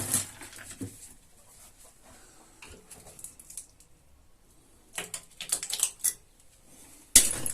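Irregular clicks and scraping from hand work on a window frame: a sharp one at the start, a run of clicks and scrapes around five to six seconds in, and a loud scrape near the end.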